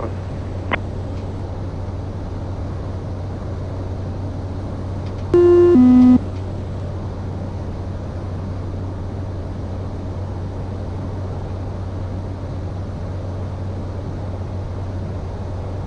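Steady low drone of the Cessna Caravan 208's Pratt & Whitney PT6A turboprop heard in the cockpit. About five seconds in, a loud two-note electronic tone steps from a higher note down to a lower one and lasts under a second.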